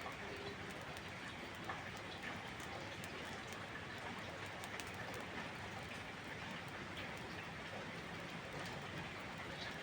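Steady rain falling, with scattered small sharp ticks and crackles through it, typical of a wood campfire burning alongside.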